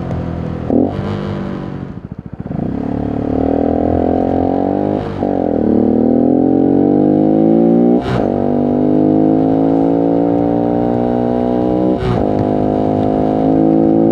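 Voge 125R 125 cc motorcycle engine. It drops back off the throttle, then pulls away with its pitch climbing through the gears. Three quick upshifts each cut the sound briefly before it climbs again, and it settles into a steady cruise near the end.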